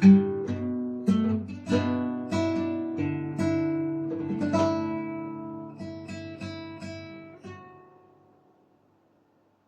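Acoustic guitar played freely, with a string of strummed and plucked chords ringing together. It slows, and the last chord dies away to silence over the final second or two.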